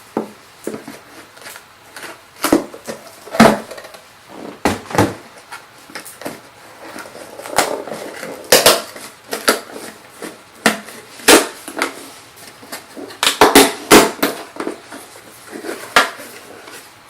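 Irregular sharp clicks, knocks and scraping of hard plastic being pried at and handled as a packaged plastic cage feeder is opened.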